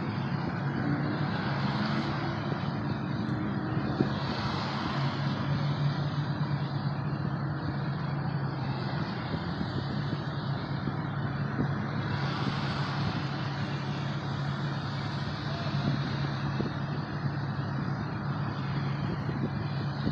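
Vehicle engine idling with a steady low hum, heard from inside the cabin, with a few brief swells of hiss from passing traffic.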